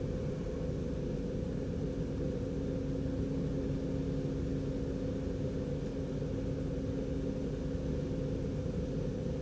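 Steady running rumble of a DDZ double-deck electric train heard from inside the driver's cab, with a steady hum over it and a second, lower held tone that fades out near the end.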